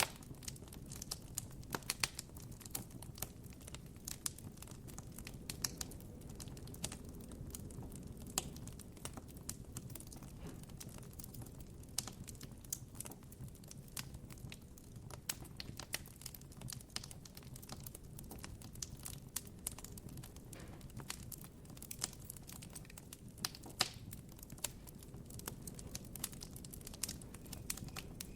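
Campfire crackling: irregular sharp pops and snaps of burning wood, with a steady low rumble of the fire beneath.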